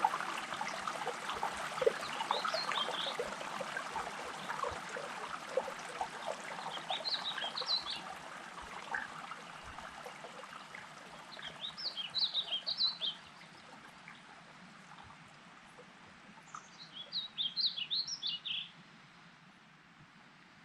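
A songbird singing short jumbled phrases of high notes, repeated every four to five seconds, over trickling water that fades out about halfway through.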